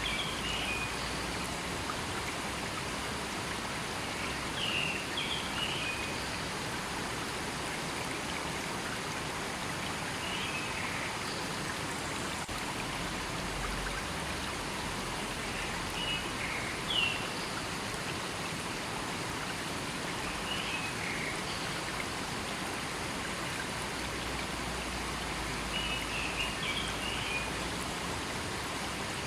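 Steady rushing of a forest river, with short high chirps about every five seconds.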